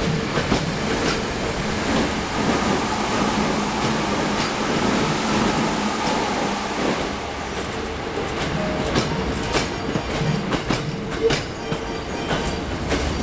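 Hankyu 9300 series electric train passing through a station without stopping: a steady rumble with the wheels clacking over rail joints, the clacks most distinct in the latter half.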